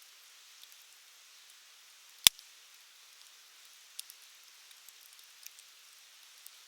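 Wood fire crackling: a soft hiss with scattered small pops, one sharp loud snap about two seconds in and a smaller one about four seconds in.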